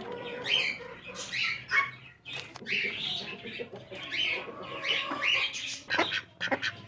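Birds calling: a steady stream of short, high chirps and squawks, one after another, with a few sharp clicks mixed in.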